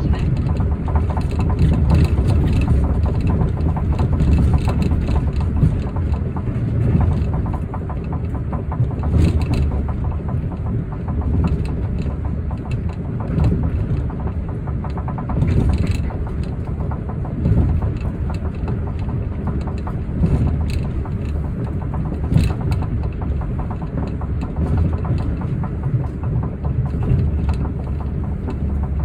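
Osaka Metro New Tram, a rubber-tyred automated guideway train, running: a steady low rumble of tyres and drive, with a few sharp clicks along the way.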